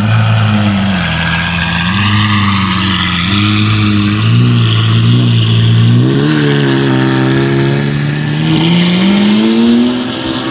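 A loud high-performance car engine revving, its pitch rising and falling several times, then climbing steadily for a couple of seconds before dropping back near the end.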